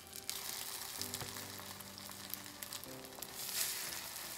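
Egg-battered oyster pancakes sizzling as they fry in oil in a nonstick frying pan, a steady hiss, with soft background music of held chords underneath.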